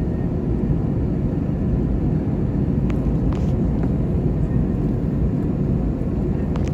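Steady low rumble inside the cabin of an Airbus A321-211 on the ground before takeoff, from its CFM56 engines at low power. A few faint clicks sound about halfway through and near the end.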